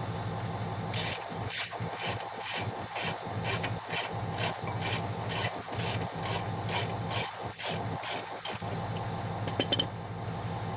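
Hand ratchet rasping on each return stroke, about two strokes a second, as a tight, threadlocked brake bolt is worked out of a 2017 Chevy Suburban.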